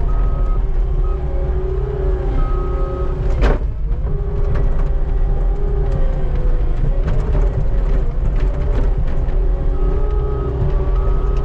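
Skid steer engine running steadily under work, with its back-up alarm beeping in short runs near the start and again near the end. A single loud clunk about three and a half seconds in.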